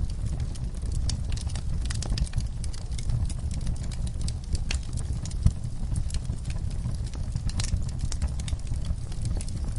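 Wood fire burning in a fireplace: a steady low rumble of flames with irregular sharp crackles and pops from the burning logs, one louder pop about halfway through.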